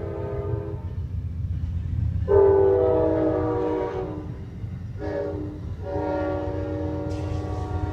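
Amtrak locomotive's multi-note air horn sounding in blasts over the low rumble of the moving train. A long blast ends about a second in, another long blast follows with its pitch sagging slightly, then a short one and a final long one. Long-long-short-long is the standard grade-crossing warning.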